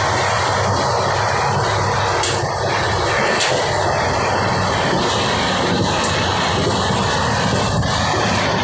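Loud steady rumble and rush of a sleeper-class passenger train running at speed, heard in the vestibule by the open coach door, with a few light clicks.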